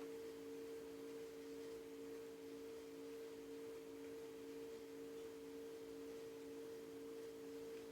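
A steady low hum of two held tones, unchanging, with nothing else standing out.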